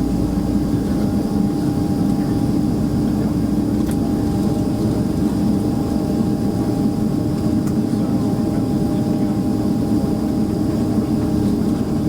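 Boeing 767-300ER's jet engines running steadily, heard inside the cabin as a constant low rumble with several steady tones.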